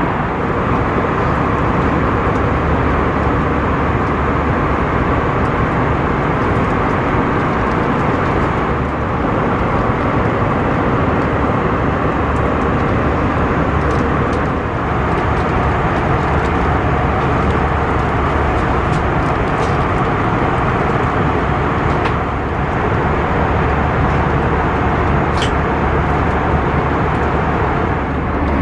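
Airbus A321 cabin noise in flight: a steady, loud rush of engine and airflow noise with a low hum underneath.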